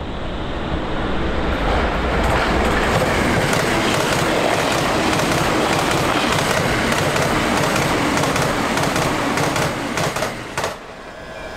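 E259 series Narita Express electric train passing at high speed, a loud steady rush of wheels on rail and air that builds over the first couple of seconds. A few sharp rail-joint clacks come near the end, then the sound falls off abruptly.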